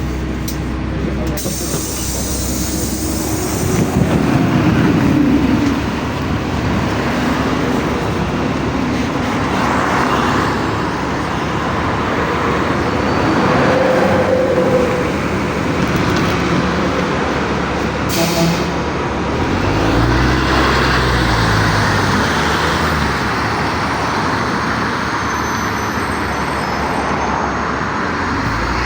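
LiAZ-5292 low-floor city bus on the move, with steady engine and road noise. About two-thirds of the way through, the engine note rises and falls, and a little before that there is a brief hiss of air.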